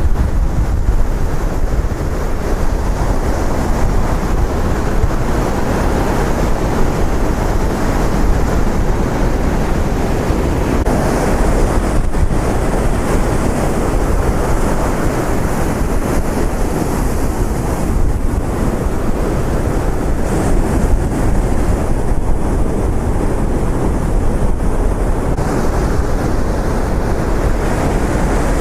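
Steady wind rumbling on the microphone over the wash of ocean surf breaking on the beach.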